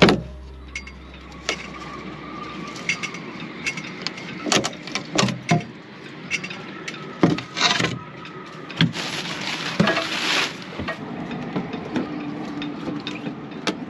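Hand work on small wooden parts: scattered knocks and clicks as pieces are handled and set down, with a brief scraping about nine seconds in.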